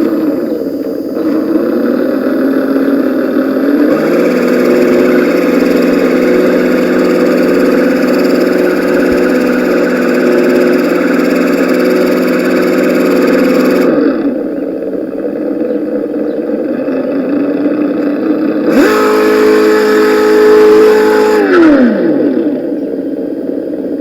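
Electronic engine sound kit on an Axial SCX10 RC crawler, playing a simulated engine through its speaker. It idles, jumps to a steady higher rev about four seconds in and holds it for about ten seconds, drops back to idle, then revs up again and winds back down near the end.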